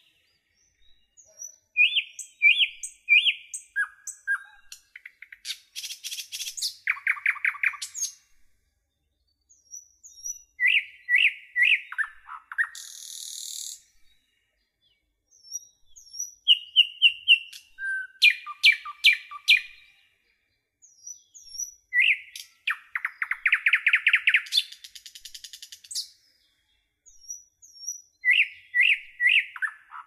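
A songbird singing in separate phrases of quick clear notes, fast trills and buzzy passages, a new phrase every five or six seconds with short silences between.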